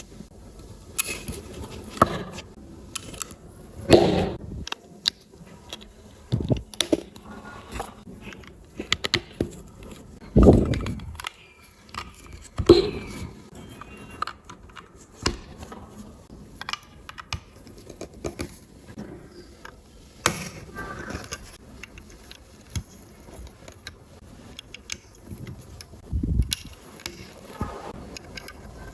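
Plastic LEGO bricks clicking and rattling as pieces are handled and pressed together, with many irregular sharp clicks and a few duller knocks.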